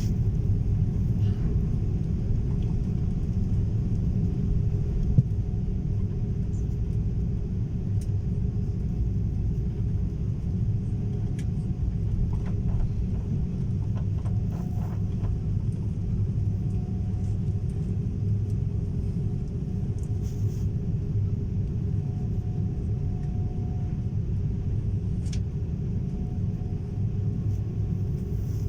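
Airliner taking off, its engines and airflow making a steady low rumble with no rise or fall in pitch.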